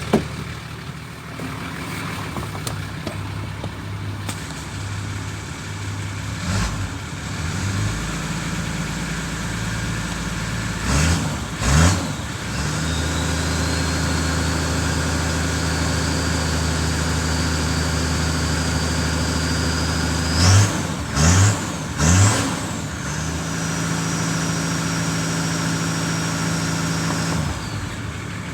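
Toyota Land Cruiser 4.2-litre diesel engine idling. Midway it is blipped twice, then held at raised revs, blipped three more times and held again, and near the end it falls back to idle. A faint high whine rises while the revs are held.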